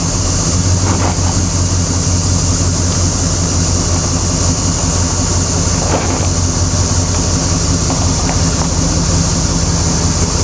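A vehicle engine runs steadily at low speed with an even, low hum. A few faint knocks come through, about a second in, near the middle, and toward the end.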